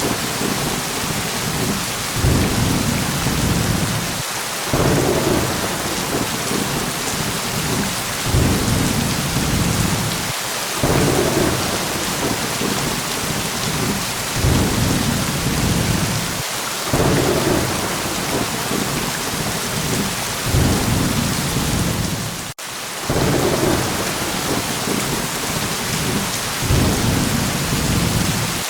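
Steady heavy rain hissing, with low rumbles of thunder swelling and fading about every two seconds. The sound drops out for an instant about three quarters of the way through.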